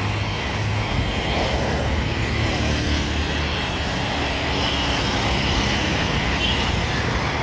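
Steady low engine rumble of passing motor traffic, with no sharp events.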